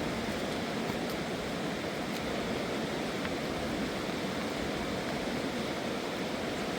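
A fast-flowing river rushing steadily, with a few faint ticks over it.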